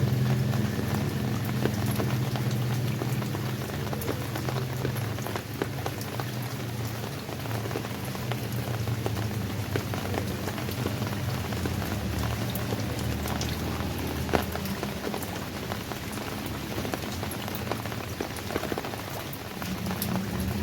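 Steady rain falling, a continuous hiss sprinkled with many separate drop ticks. A low rumble sits under it in the first few seconds and fades.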